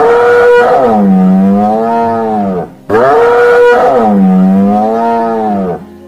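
A large animal's long, loud pitched call, given twice in near-identical form. Each call starts high, drops and wavers at a lower pitch.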